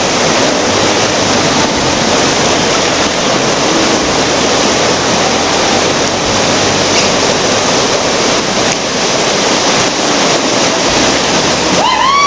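Whitewater rapids rushing: a loud, steady roar of river water. Near the end a short, high held tone cuts in over it.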